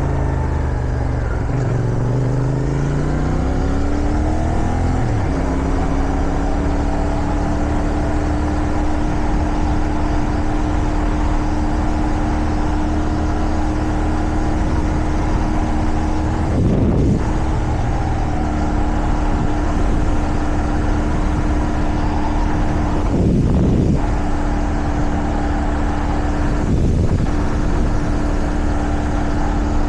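CFMOTO 450SR's parallel-twin engine heard from the saddle with wind noise. The engine note falls over the first few seconds as the bike slows, settles about five seconds in, then holds a steady cruising pitch. Three brief rushes of noise come later on.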